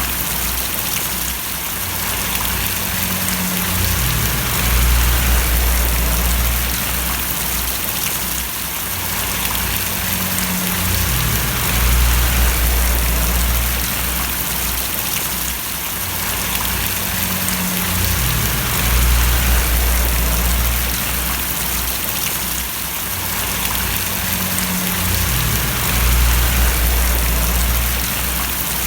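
Steady rainfall: a dense, even hiss of drops, with a low rumble underneath that swells and eases about every seven seconds.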